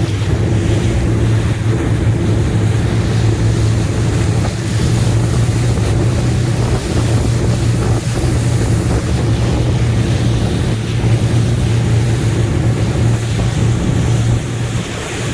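High-powered motorboat's engine running steadily with a low hum, heard on board over rushing water and wind on the microphone.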